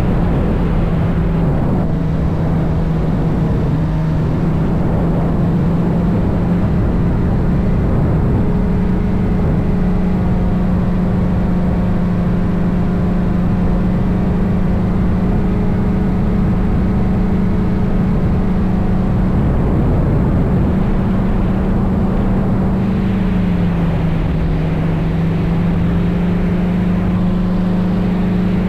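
Engine of a small helicopter running at a steady speed, a loud constant hum with overtones. Its pitch dips slightly about a second in, rises again around seven seconds, and drops a little near the end.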